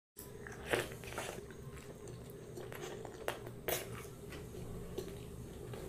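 Close mouth sounds of a person biting into and chewing a puri (deep-fried puffed wheat bread), with sharp bite and crunch noises about a second in and again around three and a half seconds in, between softer chewing.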